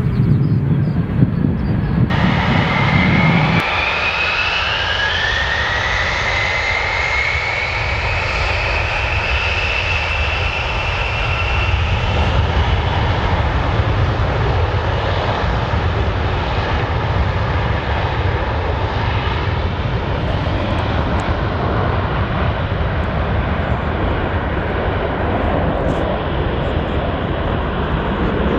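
Jet airliner engines running loud and steady, with a high turbine whine that rises in pitch over roughly the first ten seconds before settling into an even roar.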